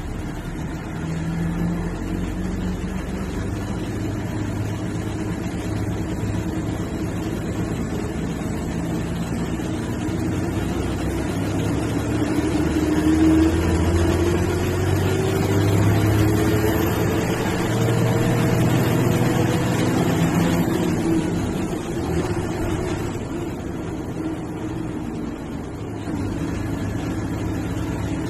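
Diesel engine of an MSRTC sleeper/seater bus pulling under load, its tone climbing steadily through the middle of the stretch. Over it, a high turbocharger whistle rises about a third of the way in, holds, then falls away about three quarters of the way through as the engine eases off.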